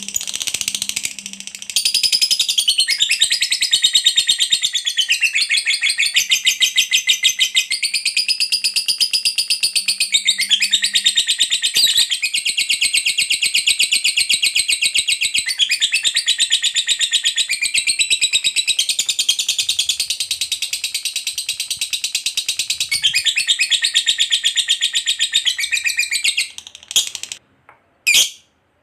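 Lovebird giving a long unbroken ngekek: a fast, high-pitched chattering trill that runs for about 25 seconds without a break, then stops, followed by a few short chirps.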